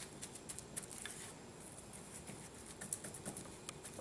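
Paintbrush dabbing liquid two-part epoxy consolidant onto rotted wood: a faint series of light, irregular taps and scratches from the bristles.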